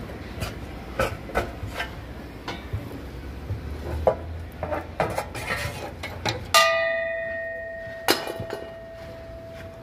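Metal hand tools clinking and knocking irregularly. About six and a half seconds in, a sharp metallic clang rings on and fades over a few seconds, and a further knock follows.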